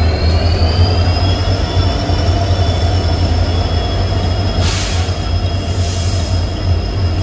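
Rani Chennamma Express passenger train running, with a steady heavy rumble and a high wheel squeal whose pitch rises slightly over the first second or two, then holds. Two short hisses come near the end.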